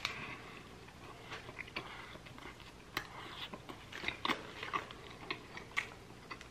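A person biting into a McDonald's sandwich and chewing it: quiet, irregular crunches and mouth clicks.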